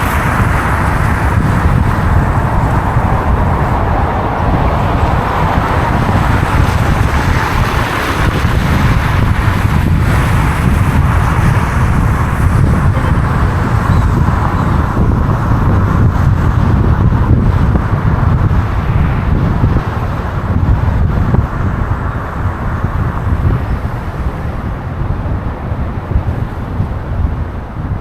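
City street traffic: vehicles driving past as a steady low rumble with tyre hiss. The hiss is louder in the first half and eases off toward the end.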